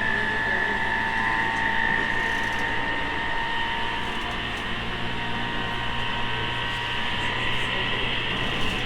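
E217 series commuter train running, heard from inside the car: a steady high whine from the traction motors and gears over a low rolling rumble.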